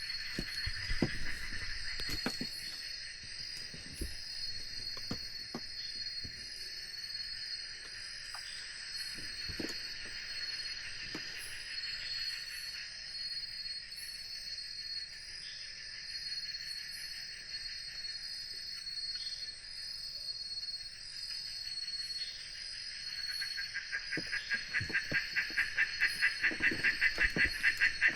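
Night chorus of insects: a steady high shrill over a lower pulsing trill, which swells into a loud, rapid chirping over the last few seconds, with a few faint scattered clicks.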